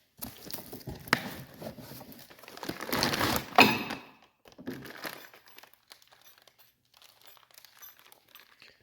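Packaging being crinkled and torn open by hand during an unboxing, with a sharp snap about a second in and the loudest rip a little after three seconds. Then quieter rustling and light knocks as parts are handled.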